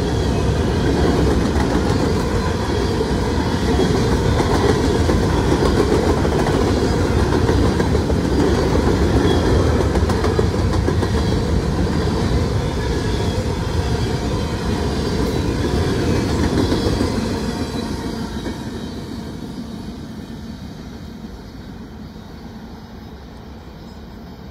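Freight train's covered hopper cars rolling past close by: a steady rumble with wheel clatter on the rails. About three-quarters of the way through, the last car goes by and the sound fades as the train moves away.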